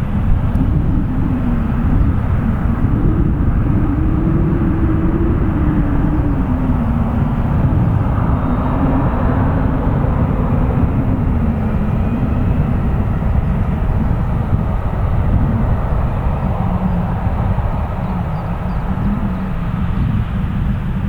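Boeing 737 jet engines running steadily at taxi power, a continuous rumble with a low hum that wavers slowly in pitch.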